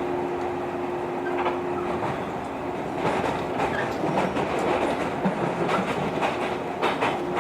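Running sound of a JR 115 series electric train heard inside the passenger car: steady rumble with a steady hum that fades about two seconds in, then from about three seconds in the wheels clack over rail joints, getting busier.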